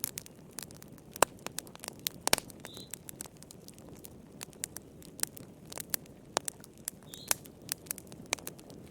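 Wood fire crackling: irregular sharp pops and snaps of uneven loudness over a low, steady rush of burning. Two faint, short high chirps come in, one about three seconds in and one about seven seconds in.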